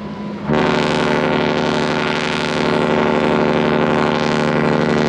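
A cruise ship's horn sounding one long, steady, deep blast rich in overtones, starting suddenly about half a second in.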